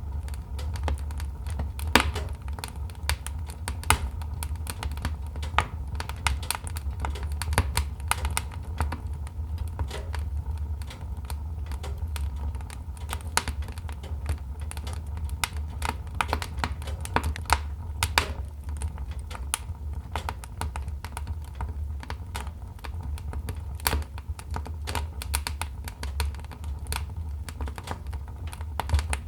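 Wood fire crackling in a fireplace: dense, irregular snaps and pops, a few louder than the rest, over a steady low rumble.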